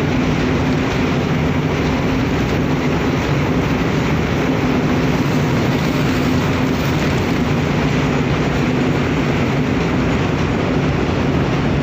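Steady drone of a cargo ship's engines and machinery, a constant low hum under a rushing noise.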